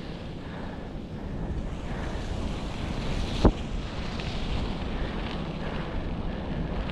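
Wind buffeting the microphone of a head-mounted camera on a moving bicycle, a steady rushing noise that grows a little louder. A single sharp knock sounds about halfway through.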